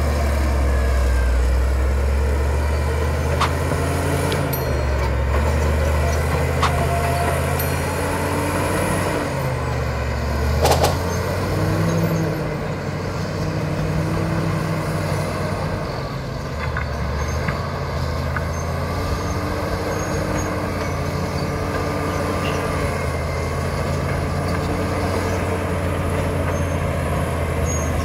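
Caterpillar D7 bulldozer's diesel engine running steadily, its pitch rising and falling as the load changes. There are a few metallic clicks and one loud clank about eleven seconds in.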